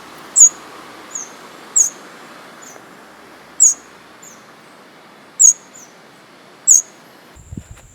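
A bird giving loud, sharp, very high chirps, one every one to two seconds, with fainter answering notes between them, over a steady background hiss. Near the end this changes abruptly to a steady high whine with a few low thuds.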